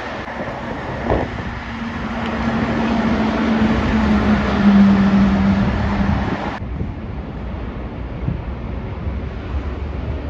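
Heavy truck passing on a road, with engine drone and tyre noise. The drone sinks slightly in pitch as it goes by and is loudest about halfway. The sound changes abruptly about two-thirds of the way through, leaving quieter traffic noise.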